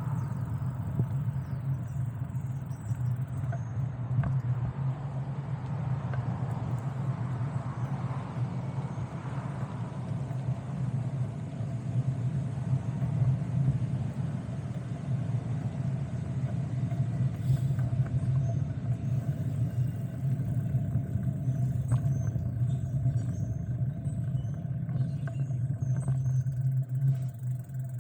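Steady low rumble of a bicycle ride under way: wind on the microphone and road noise while riding.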